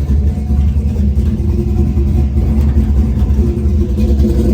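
Cammed truck engine idling with a choppy, uneven lope from its aftermarket camshaft; the engine still needs a tune to suit the cam.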